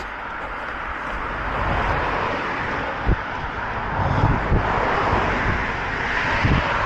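Engine noise passing close, a steady rushing sound that swells over the first couple of seconds and holds, with a few dull thuds beneath it.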